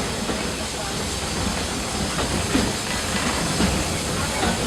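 Walt Disney World Railroad steam train running along the track, heard from a passenger car: a steady low rumble and hiss of the moving train.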